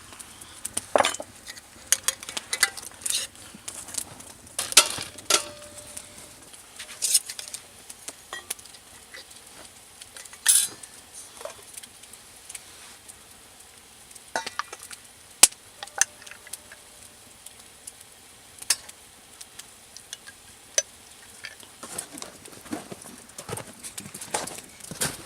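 Metal cookware and utensils clinking and knocking irregularly, a few strikes leaving a short metallic ring.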